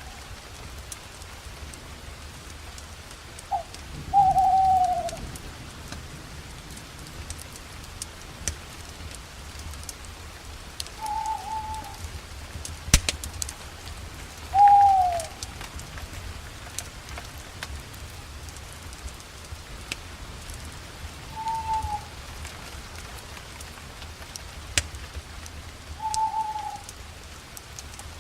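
An owl calling: a short, falling hoot repeated every few seconds, about six times. Under it a campfire crackles, with scattered sharp pops.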